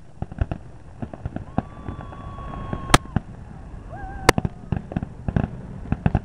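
Aerial fireworks going off: a dense run of rapid crackling pops and reports, with two louder bangs about three and four seconds in. A steady whistling tone sounds for about a second and a half in the middle.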